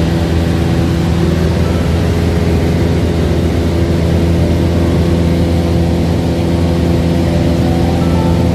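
Cessna light aircraft's piston engine and propeller, a steady drone with an even, unchanging pitch, heard from inside the cabin in flight.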